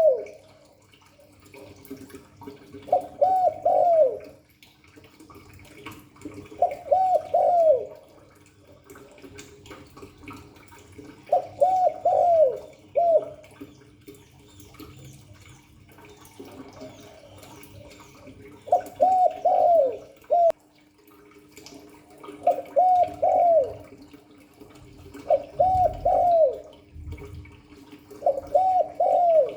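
Spotted dove cooing its song: a phrase of three or four quick coos ending on a falling note, repeated about every three to four seconds.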